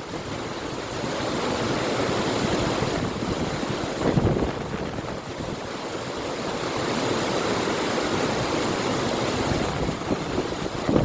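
River water rushing steadily, with wind blowing across the microphone; the level swells and eases, with a brief louder buffet about four seconds in.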